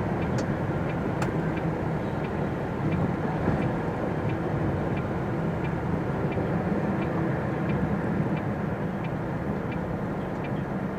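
MAN TGX truck's diesel engine running, heard from inside the cab, with the indicator ticking evenly about three times every two seconds.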